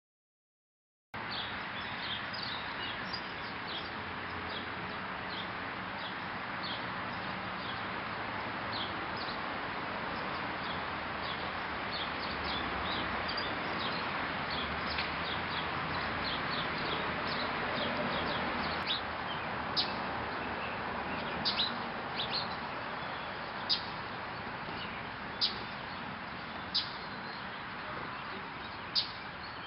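Small birds chirping at a seed feeder: many short, high chirps, coming sharper and more often in the second half. Under them runs a steady background hiss.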